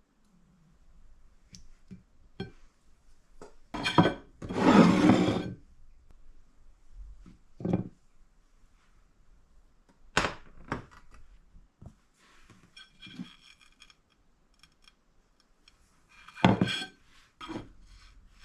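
Household handling sounds, likely in a kitchen: scattered knocks, thunks and light clinks of objects being set down and moved. A louder rough rushing sound lasts about a second and a half, around four to five seconds in.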